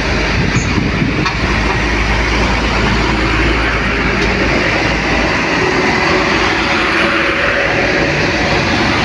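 Heavy truck running close by, a deep diesel engine rumble mixed with road noise. The low rumble drops away about five seconds in.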